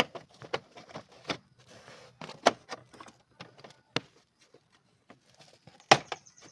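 Irregular sharp metallic clicks and knocks of tools and exhaust parts being handled during work on a motorcycle. About half a dozen separate knocks, the loudest about six seconds in.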